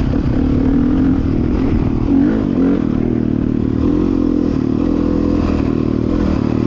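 Dirt bike engine running steadily while riding, its pitch wavering slightly up and down with the throttle.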